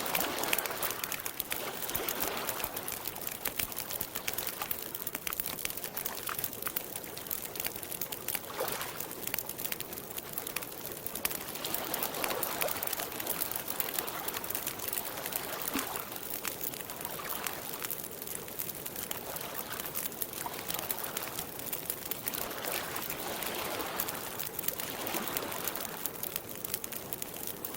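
Campfire crackling with many small sharp pops, while lake water laps the shore in soft swells every few seconds.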